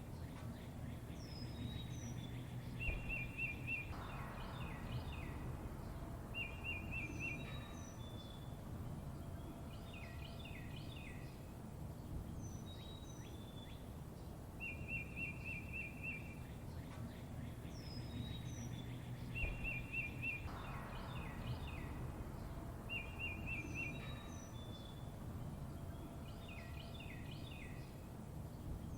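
Several songbirds chirping and trilling: short buzzy trills, quick falling whistles and clusters of chirps, over a steady low background rumble. The same sequence of calls comes round again about every 16 seconds, as in a looped recording.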